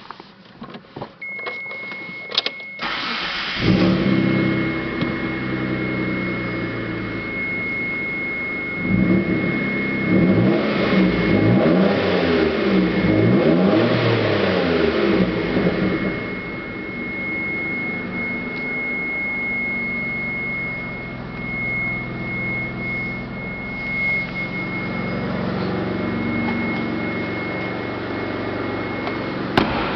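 1992 Dodge Stealth R/T Turbo's twin-turbo 3.0-litre V6 is started after a few clicks, about three seconds in, and idles. It is revved repeatedly, rising and falling, for about seven seconds, then settles back to idle. A steady high-pitched warning tone sounds from before the start until near the end.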